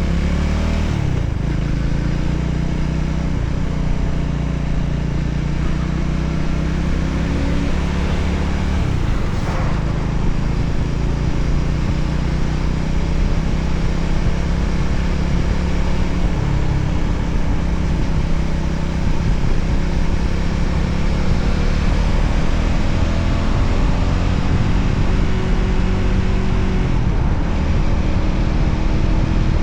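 Voge 300ACX motorcycle engine running steadily while riding, under a constant rushing noise. The engine note rises gently in the last several seconds.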